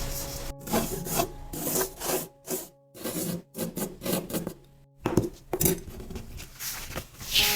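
Coloured sand rubbed and scraped over sticker paper in short repeated strokes, a few a second with brief pauses, over soft background music that stops about five seconds in.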